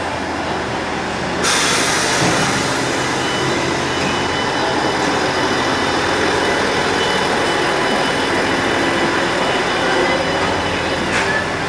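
Train running on the rails: a steady rumble and rattle that gets louder about a second and a half in and then holds.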